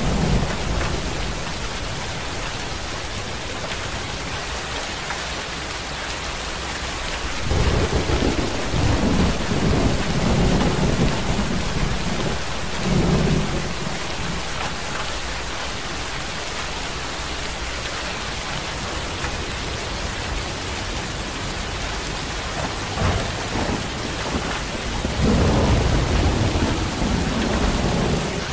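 Steady rain falling, with low rolls of thunder rumbling in several times: a long roll about a third of the way in, a short one soon after, and another near the end.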